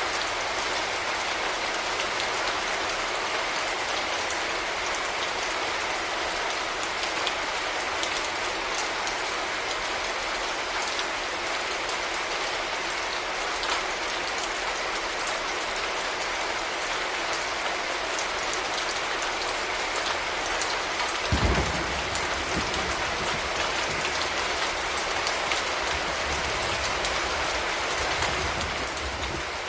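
Steady urban rainfall, an even hiss dotted with fine drop ticks. About two-thirds of the way through a low thump sets off a deep rumble that lasts several seconds.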